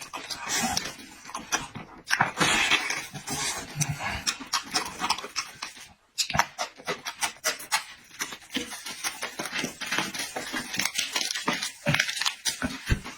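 Close-miked eating: wet chewing and lip-smacking in rapid, irregular clicks, with breathy hissing now and then and a brief pause a little before the middle.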